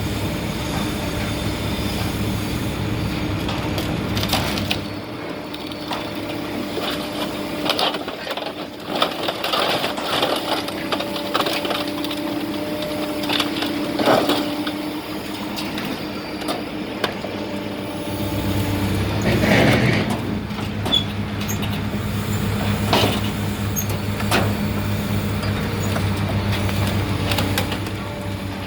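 A vehicle engine running steadily, with scattered clanks and knocks. The engine hum drops away about five seconds in and comes back just before twenty seconds.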